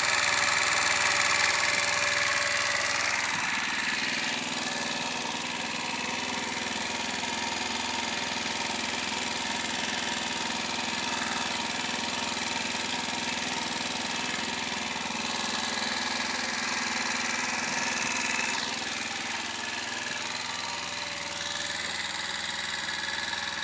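Sachs MadAss motorcycle's small four-stroke single-cylinder engine idling steadily, louder for the first couple of seconds and then a little quieter.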